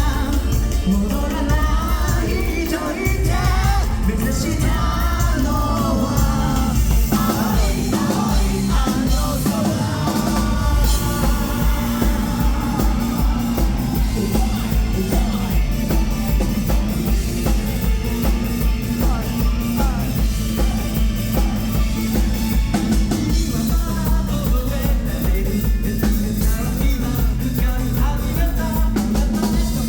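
Live rock band playing loudly: a singer over drum kit and band. The vocal line is prominent for about the first ten seconds, then the music settles into a driving, evenly pulsing beat.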